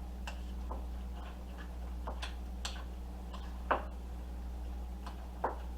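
A spoon clicking and knocking against a mixing bowl at irregular moments as thick mashed potato filling is stirred, the loudest knock about halfway through and another near the end, over a steady low hum.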